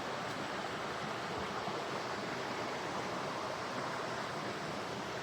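Steady rush of a flowing stream, an even wash of water noise with nothing else standing out.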